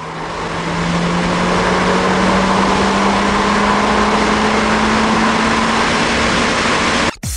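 Toyota Celica GT-Four ST185's turbocharged 3S-GTE four-cylinder engine pulling under full load in third gear on stock 12 psi boost, its pitch rising slowly and steadily as the car gains speed, heard from inside the cabin with road and wind noise. It stops abruptly near the end.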